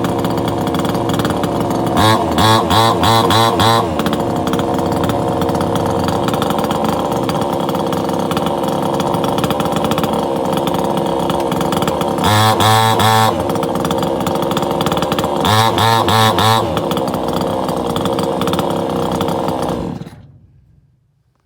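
PROYAMA 62cc two-stroke chainsaw engine idling, revved briefly three times, then shut off near the end, its sound dying away over about a second.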